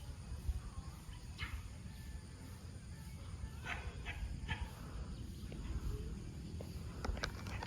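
A few short animal calls, scattered singly and in a quick cluster, over a steady low rumble.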